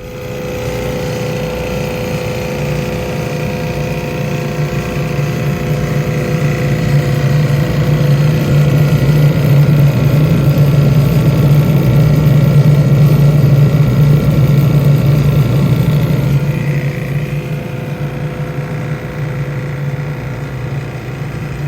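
A vehicle engine running steadily, growing louder towards the middle and easing off near the end.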